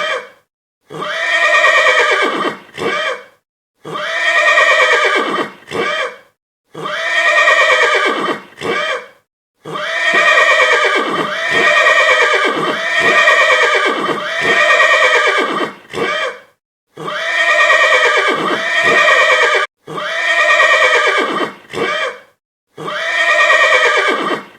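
Horse whinnying over and over, each whinny a long quavering call ending in a short extra call, with short gaps of silence between them.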